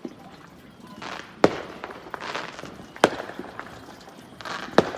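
Fireworks going off around the neighbourhood: three sharp bangs about a second and a half apart, with a crackling hiss between them.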